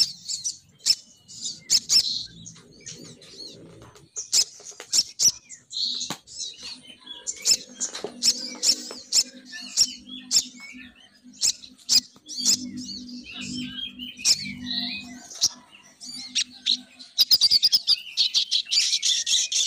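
Sogon bird calls, the female call used as a lure to bring males down: sharp chips and chirps with pauses between, breaking into a dense, loud chatter about three seconds before the end. A faint low hum runs beneath in the middle.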